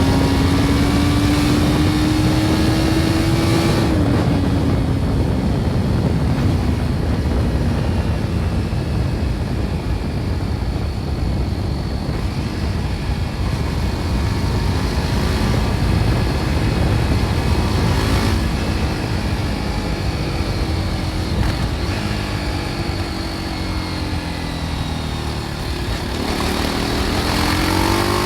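BMW G310 R's single-cylinder engine through its stock exhaust while riding, with wind rush. The engine note climbs for about four seconds, drops off, then holds a lower steady pitch, dipping and climbing again near the end.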